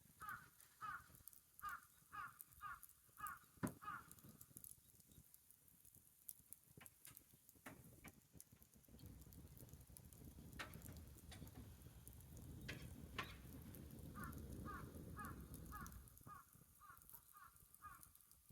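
A bird calling in two quick runs of short repeated notes, one at the start and one near the end. Faint scattered clicks come in between, and a low steady noise rises for several seconds in the middle.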